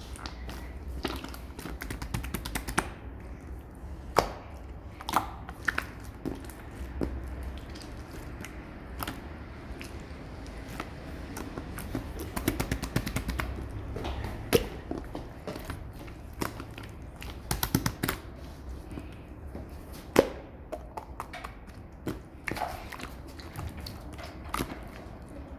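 Clear slime still full of trapped air bubbles being squeezed and poked by hand, giving irregular sharp clicks and pops over a low steady hum.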